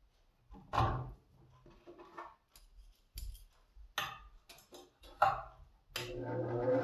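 Several separate light clicks and knocks of parts being handled, then about six seconds in the electric motor of a Wolff Twice as Sharp scissor sharpener switches on and starts to hum.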